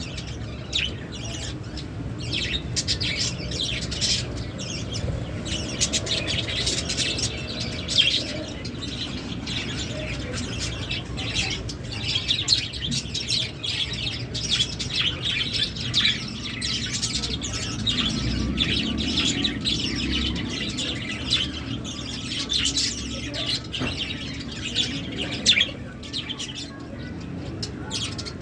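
Lovebirds chirping continuously: many short, high chirps in quick succession, over a low steady background noise.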